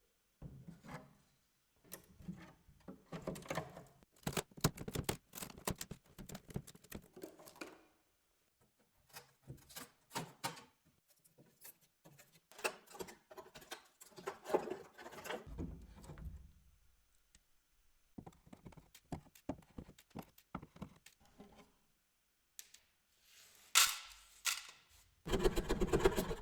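Workshop hand work: irregular clicks, knocks and scraping in several bursts with short pauses between them, the loudest near the end.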